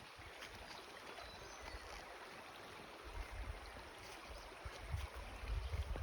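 Steady rushing of flowing stream water, with a few faint clicks. From about three seconds in, low rumbling bumps grow louder.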